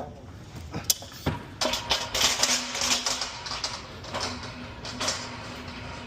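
Metal rattling and clattering of unloading gear at a box truck's lift gate: two sharp knocks about a second in, then continuous clatter over a steady hum that starts about one and a half seconds in.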